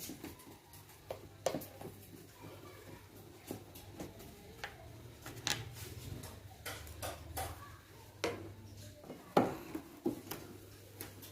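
Screws being taken out of a washing machine's body by hand tool: irregular clicks, taps and small metallic clinks of the tool and loose screws, with one louder knock near the end.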